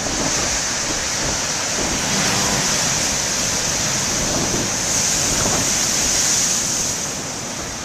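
Large ocean waves breaking and washing against a rocky shore, a steady rush of surf with wind buffeting the microphone. It swells in the middle and eases near the end.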